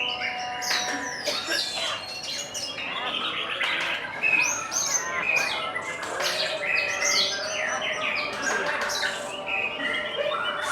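Many caged songbirds singing at once, a dense tangle of overlapping chirps, fast trills and whistled notes.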